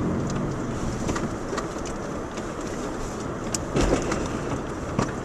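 Subaru Outback driving on a rough off-road track: a steady rumble of engine and tyres with occasional sharp knocks and rattles as it goes over bumps.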